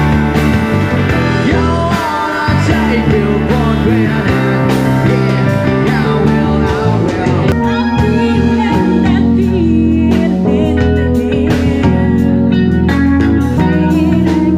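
A live rock band playing: an electric guitar lead line with bending, wavering notes over bass and regular drum hits.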